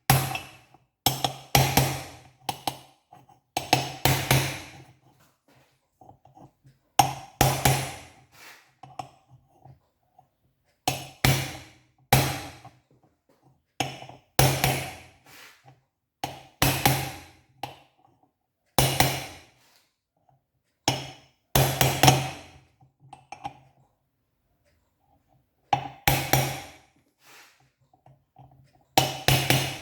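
Hammer blows on a metal part at an uneven pace, some single and some in quick pairs or triples, each ringing briefly at the same pitch.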